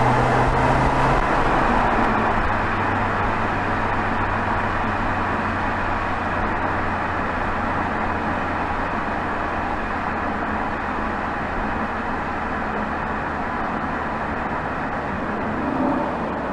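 Exhaust of a BMW 320xd's 2.0-litre four-cylinder turbodiesel (B47) running at a steady cruise, heard close to the tailpipe over road and tyre noise. The engine note drops slightly about a second in, then holds steady.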